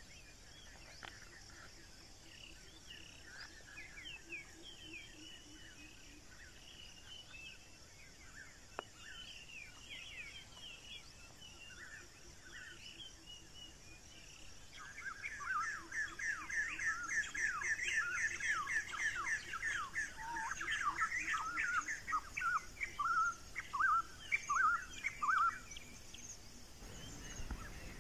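Small birds chirping: scattered short calls at first, then a busier, louder run of quick falling twitters for about ten seconds past the middle.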